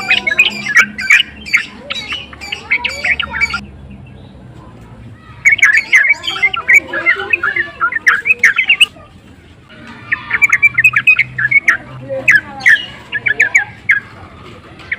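Yellow-vented bulbul (trucukan) singing in three bursts of fast, chattering notes, each lasting about three to four seconds with short pauses between. This is excited, aroused song of the kind used as a lure call to provoke other bulbuls.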